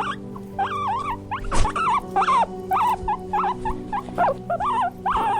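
A small animal squeaking in quick, rising-and-falling calls, several a second, over background music with steady held notes.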